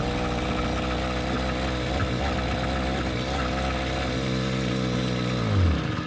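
Motorcycle engine running steadily, then falling in pitch and dying near the end: the engine stalling as it runs out of fuel.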